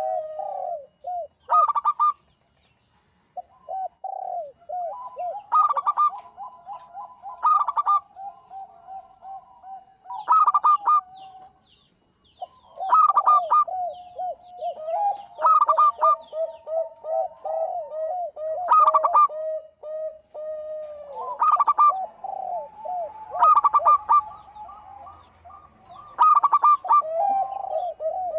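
Zebra doves (local perkutut) in full song: rapid staccato cooing phrases, overlapping one another, with louder accented notes every two to three seconds and a brief pause a few seconds in.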